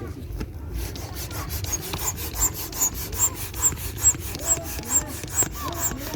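Manual air pump inflating an air mattress: a steady rhythm of short hissing, rasping pump strokes, about two to three a second, starting about a second in.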